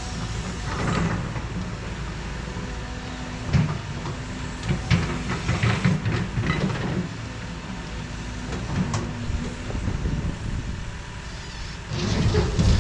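Heavy diesel equipment engine running steadily, with irregular metallic clanks and knocks over it, louder near the end.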